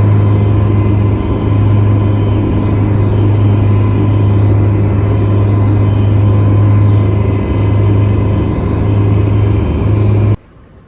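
A charter fishing boat's engine running steadily with a strong low hum, which cuts off suddenly near the end.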